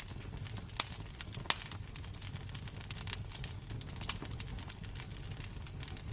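Wood fire crackling in a fireplace: irregular sharp pops and snaps, a couple of louder ones in the first two seconds, over a low steady rumble.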